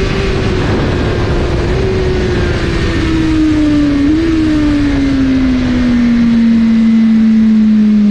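Suzuki GSX-R1000R inline-four sportbike engine, its pitch falling steadily as the bike slows and the revs drop, with two brief upward jumps in pitch about two and four seconds in. A loud rushing noise runs beneath it.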